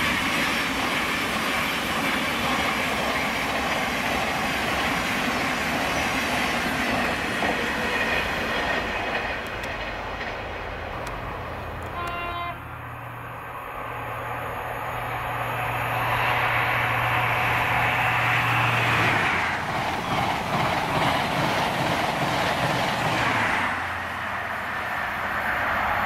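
Trains running on the main line: an electric multiple unit's wheels rumbling past on the rails for about the first twelve seconds, then an InterCity 125 with Class 43 diesel power cars approaching, its engine giving a steady low hum and the train getting louder near the end.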